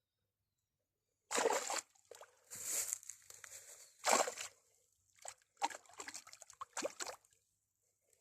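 Water splashing in about five short bursts, from a small hooked pike thrashing at the surface.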